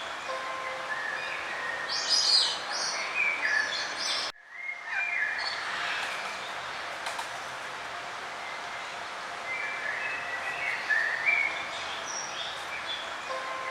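Several songbirds chirping and singing over a steady background hiss, with a brief break about four seconds in.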